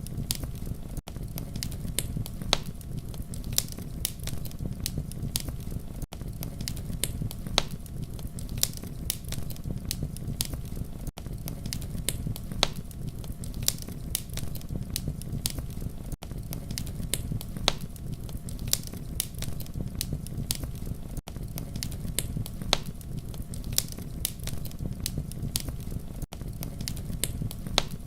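Campfire crackling: a steady low rumble of flames with frequent sharp, irregular pops and snaps. Brief dropouts about every five seconds.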